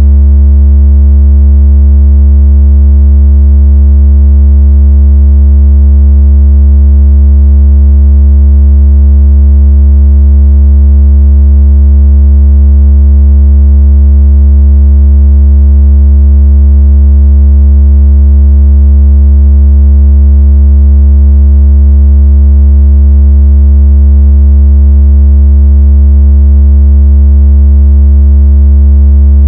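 Steady, very loud, deep synthesized tone, a vibration or water-ejection speaker tone meant to shake water out of a phone speaker, holding one pitch without a break, with faint overtones giving it a slightly buzzy edge.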